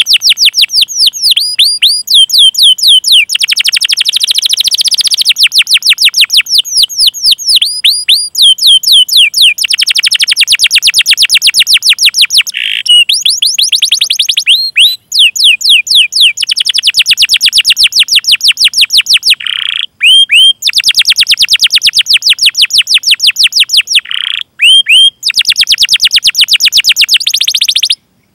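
Domestic canary singing: fast rolling trills of rapidly repeated notes alternating with runs of sharp, downward-sweeping 'cuit cuit' chirps. It breaks off briefly a few times and stops just before the end.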